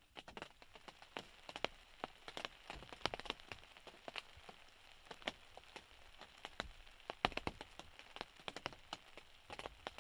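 Rain falling, with irregular drops ticking sharply close by over a steady hiss.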